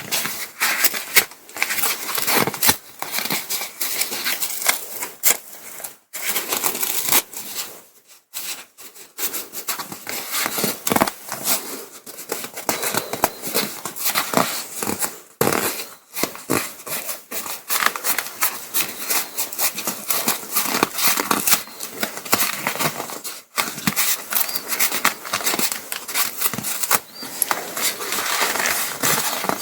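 Crinkling and rustling of paraglider ripstop nylon being handled while a repair patch is fitted, with many quick scratchy clicks throughout.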